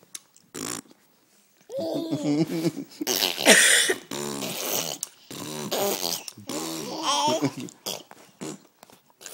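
Mouth noises: lip raspberries blown with the lips, mixed with voiced, pitch-sliding vocal sounds, in repeated bursts that start about two seconds in.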